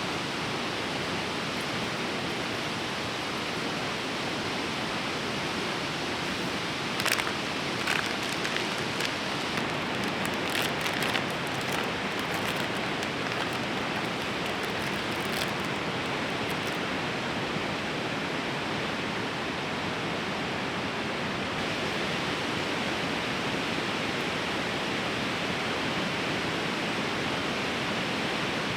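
Fast-flowing river rushing in a steady, even roar. About a quarter of the way in come a series of light clicks and knocks, lasting some ten seconds.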